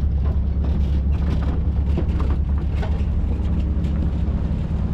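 Off-road truck engine running steadily under load while climbing a rocky trail, a low drone with scattered short knocks and rattles on top.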